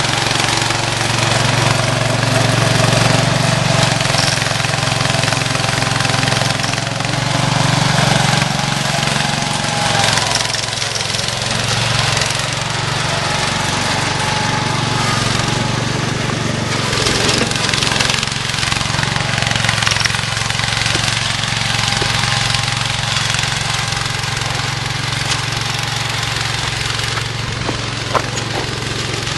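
Cub Cadet 147 garden tractor's Kohler K321 single-cylinder engine running steadily, a little louder during the first several seconds and then settling at a more even level.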